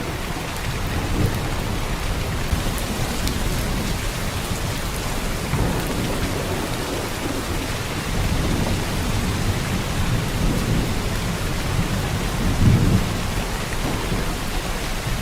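Heavy downpour of rain: a dense, steady hiss of rain falling, with a deep low rumble that swells a few times and is strongest a little before the end.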